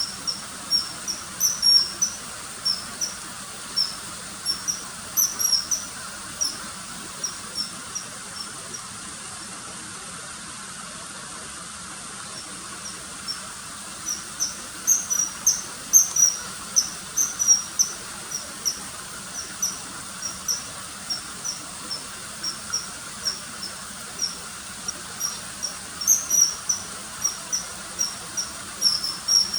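Common kingfisher calls: short, sharp, high-pitched notes repeated in quick irregular runs, with a pause of several seconds in the middle.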